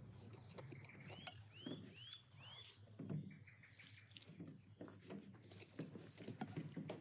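Faint, wet chewing and smacking as a man bites and chews roast lamb meat, with many small clicks. About a second in, a bird calls four quick arched chirps in a row.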